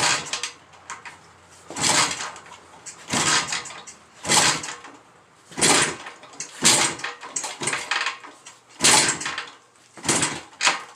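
1976 Harley-Davidson SS 175's two-stroke single being kicked over about eight times without catching. Each kick is a short noisy burst, roughly one every second or so, as the cold engine is tried without choke.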